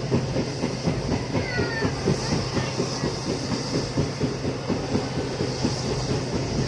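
Train running along the track, heard from aboard: a steady low rumble with rapid, uneven clattering of the wheels over the rails.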